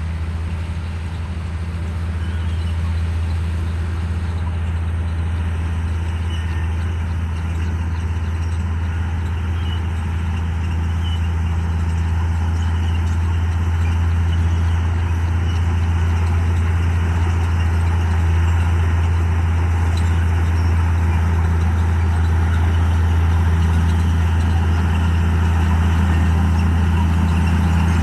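Komatsu D58E bulldozer's diesel engine running steadily with a deep, even drone, growing gradually louder.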